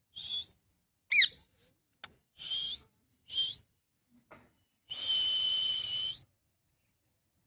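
Pet parrot giving a string of short whistling calls, one sliding steeply down in pitch, then a longer call held for about a second.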